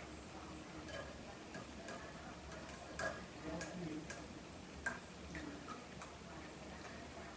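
Scattered light clicks and taps, a few in every second or two, the sharpest about three and five seconds in, over a faint low hum.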